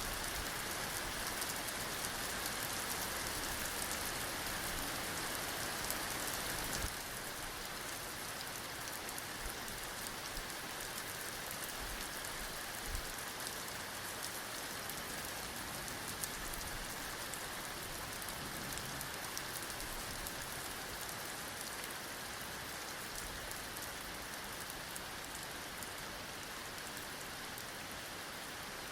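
Heavy rain falling steadily, an even hiss of many drops; the level drops a little about seven seconds in.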